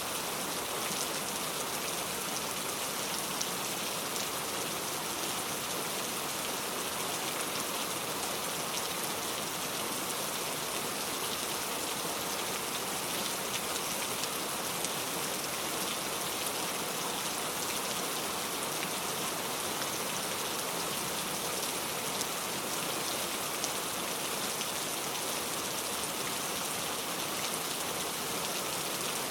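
Steady rainfall: an even hiss of falling rain with fine spattering drops.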